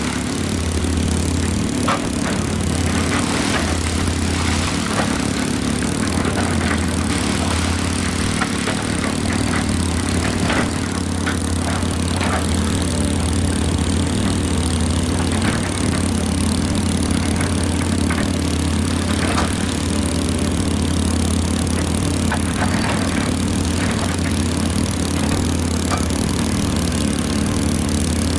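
Excavator's diesel engine running steadily, with scattered short knocks and clanks throughout.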